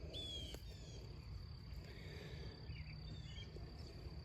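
Steady high insect trilling in the background, with a few short bird chirps near the start and again about three seconds in, over a low steady rumble.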